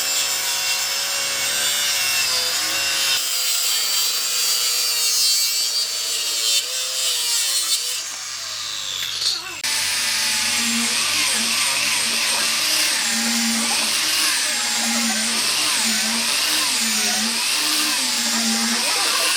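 A power tool working wood, its motor note wavering as the load changes. The sound changes abruptly about three seconds in and again near the middle.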